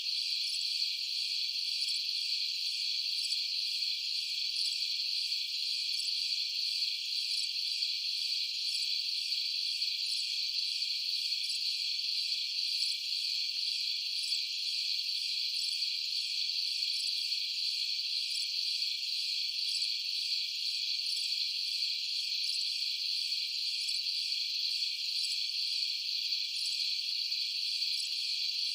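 A steady night chorus of crickets: a continuous high trill, even in loudness, with nothing lower underneath.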